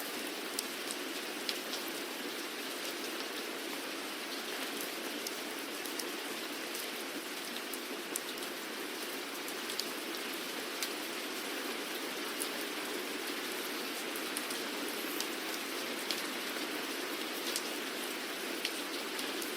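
Steady rainfall, an even hiss dotted with the sharp ticks of individual drops hitting a surface.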